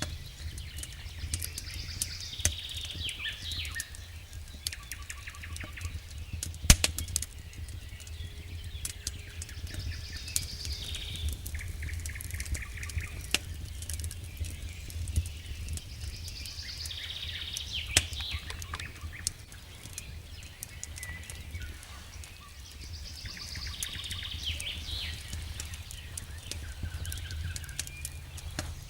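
Wood fire in a fireplace crackling, with scattered sharp pops (the loudest about 7 s in) over a steady low rumble. A chirping bird call repeats about every seven seconds.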